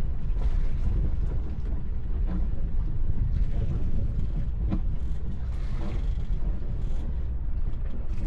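Low, steady rumble of an idling boat engine, with a few short knocks.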